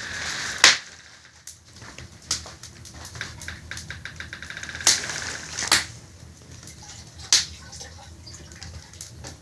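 Scattered sharp clicks and knocks at uneven intervals, a few of them louder, with a short rapid run of ticks near the middle.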